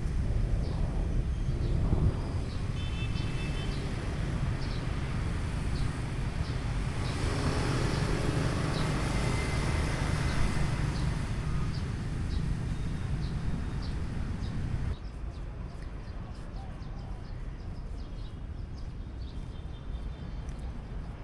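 Steady hum of city traffic with outdoor street ambience and a few faint short chirps; it drops suddenly to a quieter background about fifteen seconds in.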